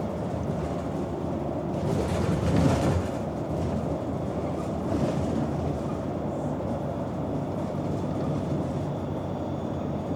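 Interior of a city transit bus in motion: a steady low rumble of engine and road noise, swelling briefly louder a couple of times.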